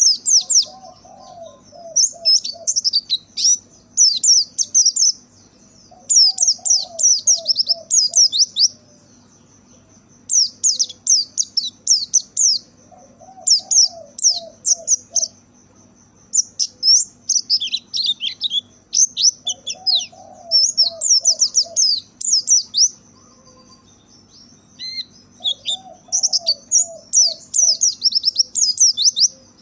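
A white-eye (pleci) singing in fast, high twittering phrases of one to three seconds with short pauses between them. A lower run of short notes comes back about every seven seconds, and a thin steady high tone runs underneath.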